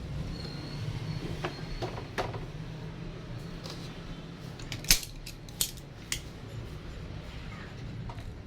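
Scattered metal clinks and taps of parts and tools while a pulley is fitted onto a twin-tub washing machine's spin-dryer motor, with a few sharper clicks a little past the middle.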